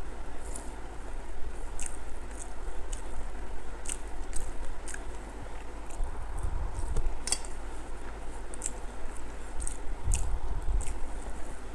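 Close-up eating sounds: chewing with wet lip smacks and mouth clicks at irregular intervals, over a low steady rumble.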